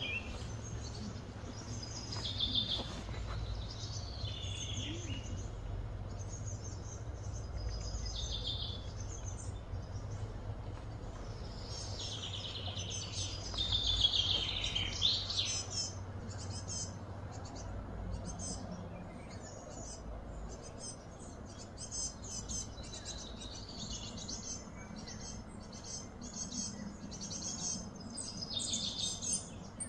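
Birds chirping outdoors in short, repeated calls, some sweeping up or down in pitch, busiest about twelve to fifteen seconds in, over a low steady hum.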